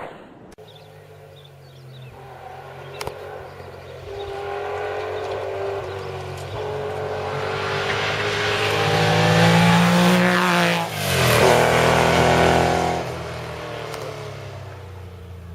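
Historic rally car's engine revving hard and growing louder as it approaches on a tarmac stage; about eleven seconds in the engine note falls sharply as it passes close, then it pulls away under power and fades.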